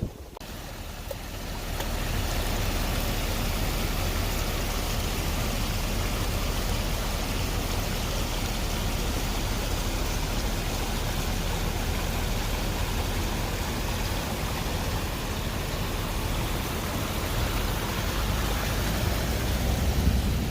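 Mountain stream rushing steadily, running high after days of rain; the sound swells up over the first couple of seconds, then holds.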